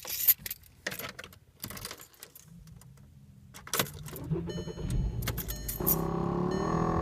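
Keys jangling, then a VW Rabbit MK5 2.5 starting up about five seconds in. About a second later a steady pitched buzzing whine starts, rising briefly and then holding. It is the noise of the recirculation door control motor, which the owner believes is broken.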